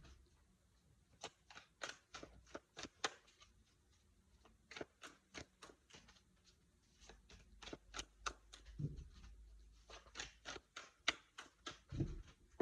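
Tarot cards being handled and shuffled by hand: a faint, uneven run of light clicks and card slaps, about two to four a second, with a couple of soft thuds.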